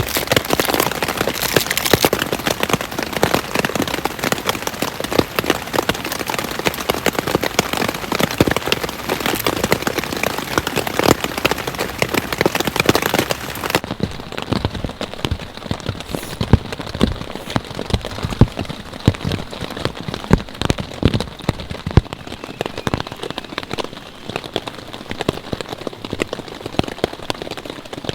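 Steady rain pattering, a dense run of individual drop ticks. About halfway through the sound abruptly turns duller, with the highest tones gone.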